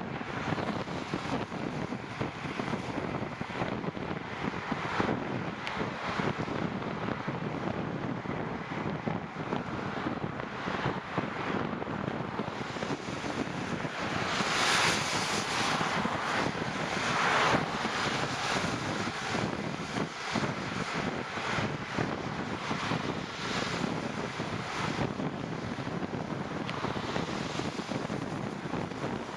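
Wind rushing over the microphone of a rider moving along in the rain, mixed with a steady hiss of wet road noise. The hiss swells louder for a few seconds about halfway through.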